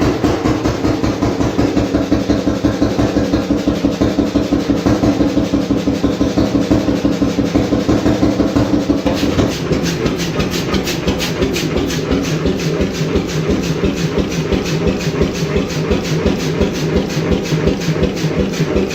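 1928 Beijer 10.4-litre single-cylinder hot bulb oil engine running, a steady rapid beat of several firing pulses a second. About nine seconds in, the tone changes and a sharper clatter comes in.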